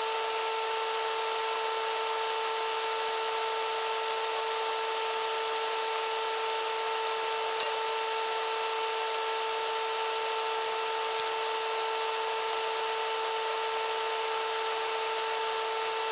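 Motor of a handheld power tool running at one constant speed, giving a steady whine with a fixed pitch and no change in throttle.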